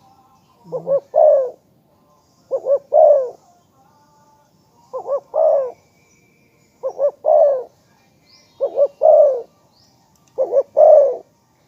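Spotted dove cooing: six repeated phrases about two seconds apart, each two short coos followed by a longer, louder one.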